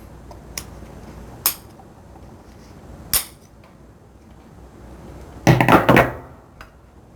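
Sharp single clicks of hard objects handled on a workbench, three spread through the first half, then a louder short clatter of knocks a little after five seconds in.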